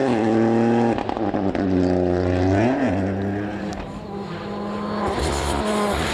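Rally car engine running hard at high revs. The revs drop sharply about a second in, with a couple of sharp cracks, climb again, dip and rise briefly near the three-second mark, then the engine note fades and swells again.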